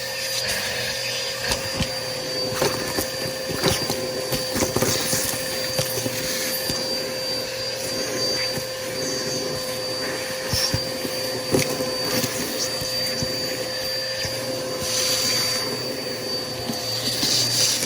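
Bissell PowerForce Helix upright vacuum running steadily, its motor whine holding one pitch, with scattered clicks and rattles throughout.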